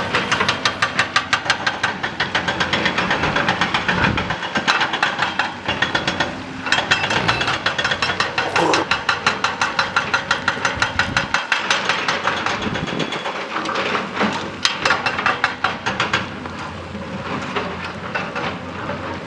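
Excavator-mounted hydraulic rock breaker hammering rapidly, about eight to ten blows a second, with a brief pause about six seconds in. The hammering stops about sixteen seconds in, leaving the excavator's engine running.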